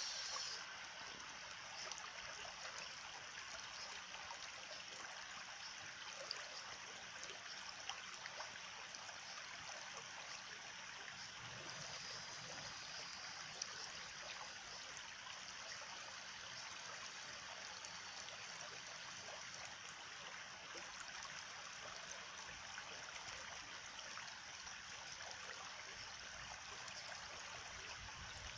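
Stream running steadily with a trickling, babbling flow and a few faint splashes.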